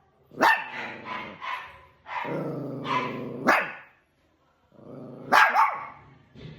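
Dogs fighting: a few sharp barks, two of them close together near the end, with a drawn-out growling vocalisation in the middle.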